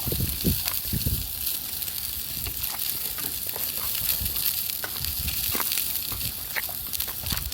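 Food sizzling over a campfire, a steady hiss with scattered crackles, and a few dull low thumps.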